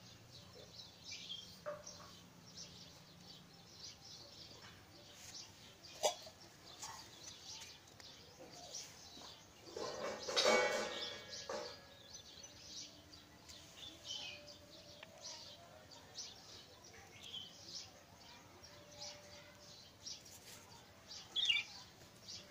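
Faint chirping of small birds, scattered throughout. A sharp knock comes about six seconds in, and a louder noisy burst around ten to eleven seconds is the loudest sound.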